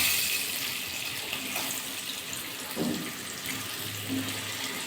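Potatoes frying in hot mustard oil in a kadai, a steady sizzle, with a couple of short knocks, at the start and about three seconds in.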